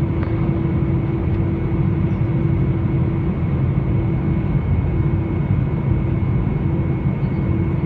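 Airbus A320-214 in flight, heard from the passenger cabin: a steady drone of its CFM56 engines and airflow, with a constant low hum and a fainter high tone over it.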